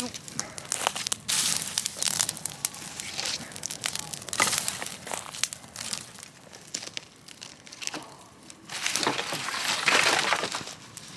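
Dry brush and branches rustling, crunching and snapping as they are handled and piled onto a bonfire, with many scattered sharp crackles; the loudest rustling comes in two surges, about a second in and again near the end.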